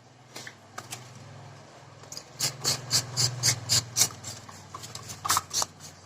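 Hand trigger spray bottle spritzing water in quick repeated pumps, about three or four a second, starting about two seconds in.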